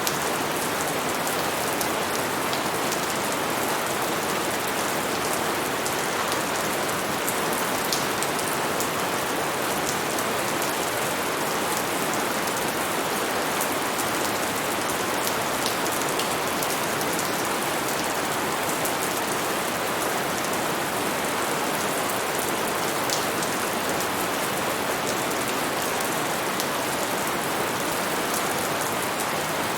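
Steady rain falling on a surface, with a dense patter of drops and occasional sharper individual drip ticks.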